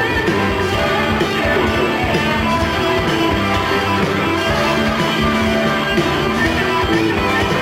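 Live rock band playing an instrumental break between sung sections, with electric guitar to the fore.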